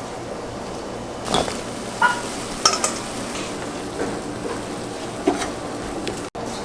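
Metal utensils clinking against cookware about five times, some strikes ringing briefly, over a steady hiss.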